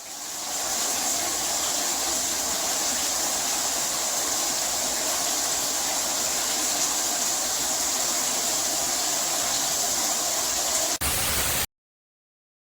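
SR Sun Rise 12-inch rain shower head running at full flow with no flow restrictor fitted, its water falling in a steady hiss. It cuts off suddenly near the end.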